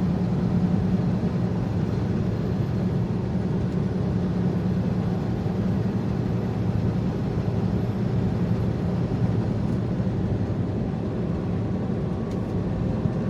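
Semi-truck cab at highway speed: a steady low drone from the diesel engine and drivetrain, under even road and wind noise.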